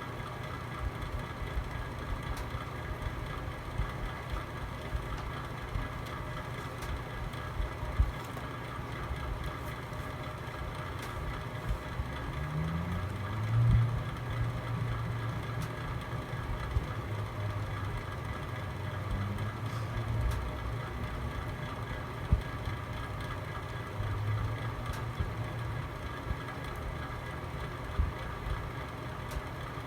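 Fire burning in a fireplace, with a few sharp crackles and pops over a steady low hum; a low rumble swells briefly around the middle.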